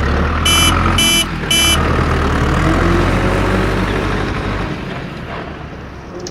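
Low, steady truck engine rumble with three short high beeps about half a second apart in the first two seconds. The rumble fades away toward the end.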